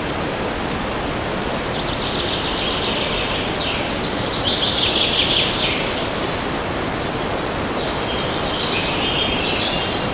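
Steady wind rushing through forest trees, with songbirds singing over it: quick trilled phrases and short falling notes, loudest in the middle, then another bird singing near the end.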